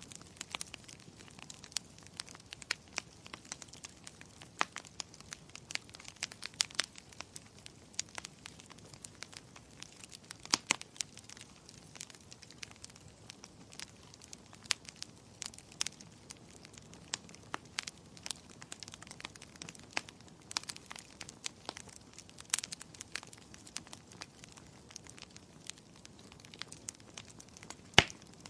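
Wood fire crackling: irregular sharp pops and snaps over a faint low hiss.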